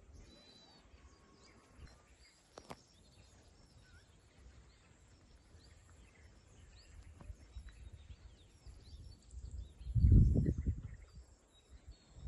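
Birds chirping faintly in short calls over a low outdoor rumble. A single click comes a little under three seconds in. A louder low rumble swells about ten seconds in.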